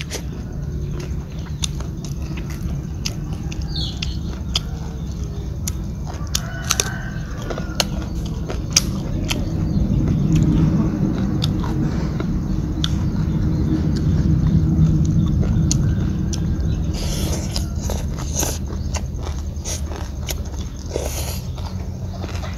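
Close-up chewing of papaya salad and rice noodles, with many small sharp wet mouth clicks and crunches. A steady low rumble runs underneath.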